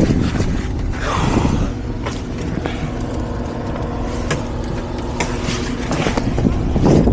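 A semi-truck engine idling steadily, with wind buffeting the microphone and scattered knocks and scrapes.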